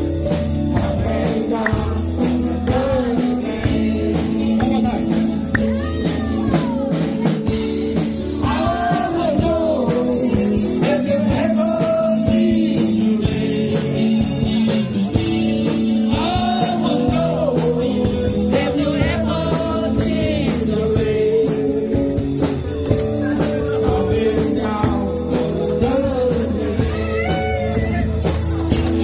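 A live band playing a classic rock song with a singer, electric guitar and a steady beat.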